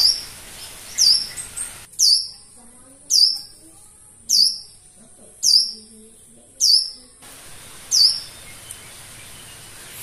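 A bird calling over and over, about once a second: eight sharp, high chirps, each dropping quickly in pitch.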